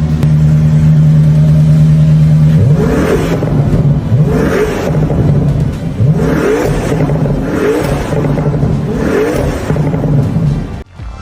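Toyota GR GT's twin-turbo V8 running at a steady drone, then revved again and again: about a second in a row of quick rising revs, each falling back before the next. It cuts off sharply just before the end.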